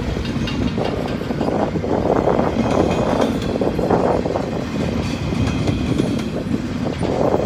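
Freight train of empty cars rolling past, the wheels clicking over the rail joints above a steady rumble.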